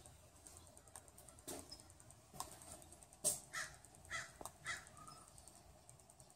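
A bird calling: three short calls about half a second apart in the middle, just after a sharp click.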